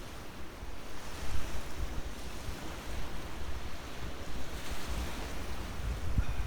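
Wind buffeting the microphone with irregular low rumbles, over a steady wash of sea waves on the shore.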